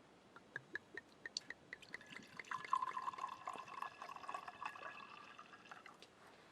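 Wine poured from a bottle: a few quick glugs, then a steady pour for about four seconds that stops near the end.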